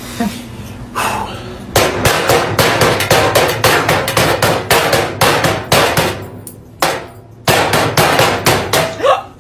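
Rapid series of hard knocks, about three to four a second, in two runs separated by a short pause.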